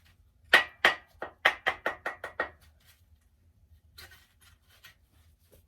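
About nine sharp, ringing taps, coming faster toward the end, as the thrust bearing shell is knocked loose from its main bearing saddle in a Ford 302 cast-iron engine block. A short scraping rustle follows about four seconds in.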